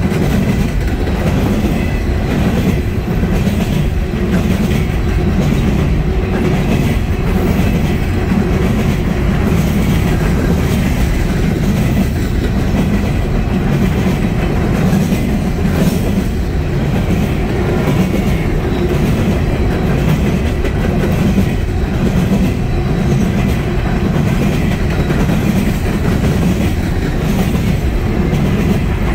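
Coal hopper cars of a freight train rolling past close by: a steady rumble of steel wheels on rail with a regular repeating beat as the wheel sets pass.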